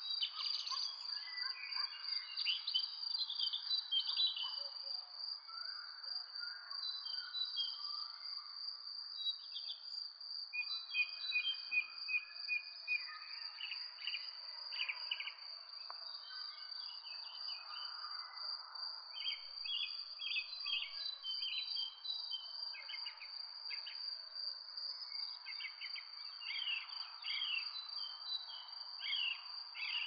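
Birds chirping: many short calls and a few held notes, repeated throughout, over a steady high-pitched whine and a soft background hiss.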